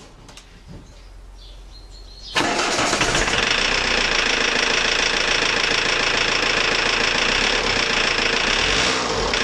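Renault Kangoo 1.9 diesel engine coming in abruptly about two seconds in and then running loudly and steadily. The timing belt has jumped a couple of teeth.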